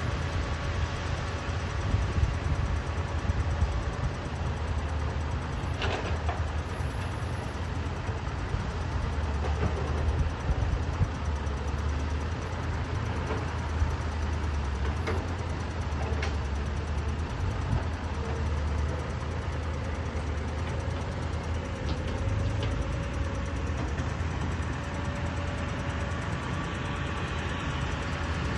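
Caterpillar 320D hydraulic excavator working: its diesel engine runs steadily with a low rumble and a steady whine, with a few sharp knocks along the way.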